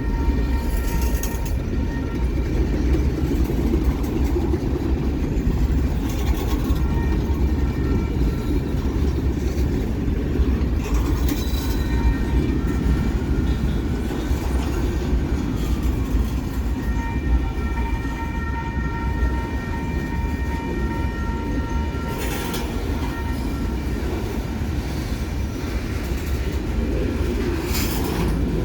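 A train rolling past: a steady low rumble of wheels on rail, with thin high tones that fade in and out and a few brief clanks.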